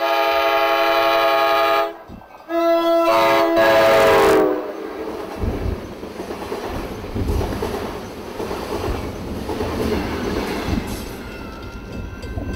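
Passenger train sounding its horn in two blasts as it approaches, the second one dropping in pitch at its end as the train goes by. Then the loud rumble and clatter of the train's wheels on the rails as it passes.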